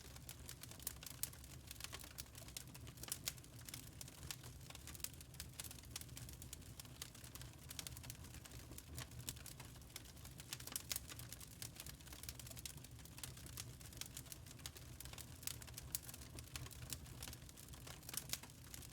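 Wood fire crackling in a fireplace: irregular sharp snaps and pops, many a second, over a low steady rumble.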